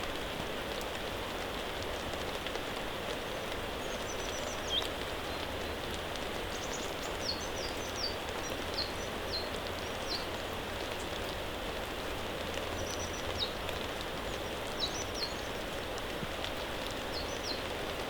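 Steady rain falling in a forest, an even hiss. Short high chirps come now and then from about four seconds in.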